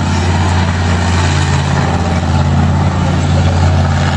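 Monster truck's engine running loud and steady with a deep rumble.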